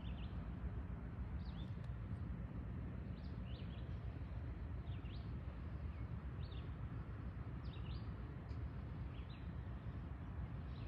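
A small bird chirping in short repeated notes, roughly one every second, over a steady low rumble.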